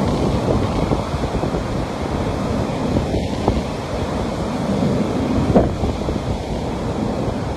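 Sea waves washing onto a beach, a steady rush of surf, with wind buffeting the microphone.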